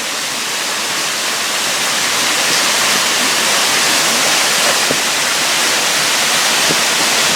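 Waterfall cascading: a steady, dense rush of falling water that grows a little louder over the first couple of seconds, then holds.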